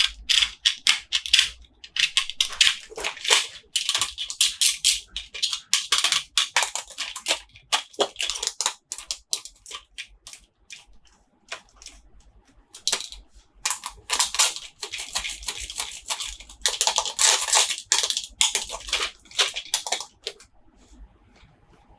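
Toy packaging being unboxed by hand: irregular crinkling and rustling with sharp taps and clicks, easing off briefly about halfway through.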